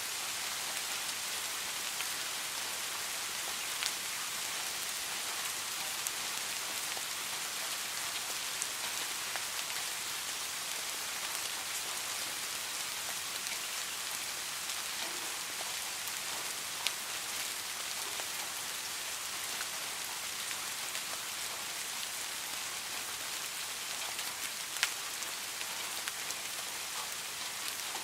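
Steady rain, an even hiss with a few louder single drops ticking now and then.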